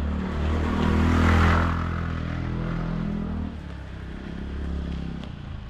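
Street traffic: an engine running steadily close by, with a vehicle passing about a second in and the noise then dying down.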